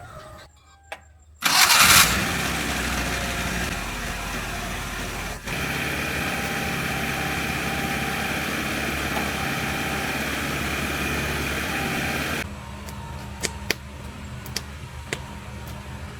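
Restored Suzuki truck's engine started: it catches suddenly about a second and a half in and then runs steadily. About twelve seconds in the sound drops to a quieter, duller steady hum.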